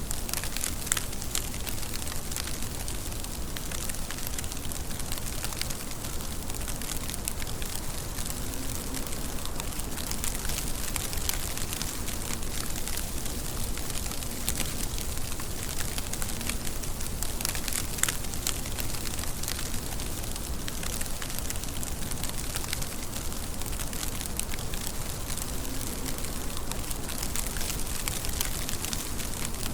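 Steady rain falling, an even hiss with scattered sharp drop ticks, a couple of them louder.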